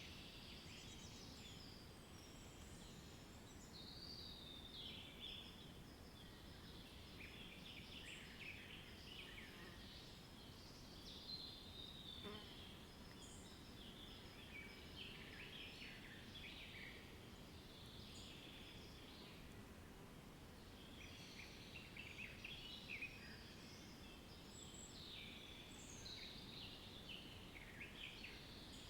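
A faint chorus of small birds chirping and twittering continuously, many short overlapping calls, over a steady low background noise.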